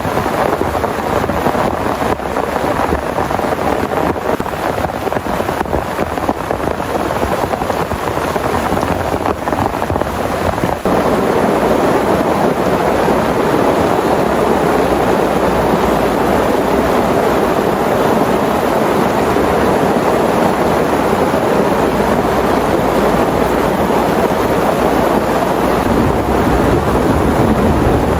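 Heavy rain pouring steadily, becoming louder and more even about eleven seconds in.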